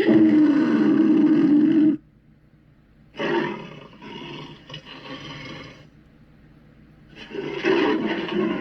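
Monster roar sound effects for the demon Chernabog: three separate roars. The first is the loudest, lasts about two seconds and cuts off sharply. The second starts about three seconds in and trails off, and the third starts near the end.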